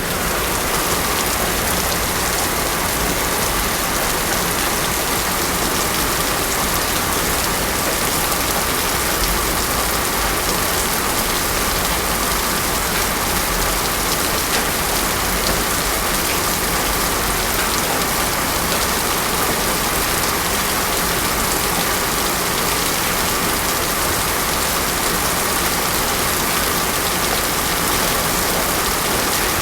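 Heavy rain falling steadily on a paved road, an even hiss with no thunder. A faint steady tone sits under it.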